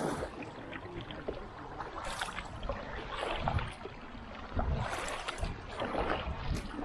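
Whitewater rushing, with intermittent splashes from kayak paddle strokes.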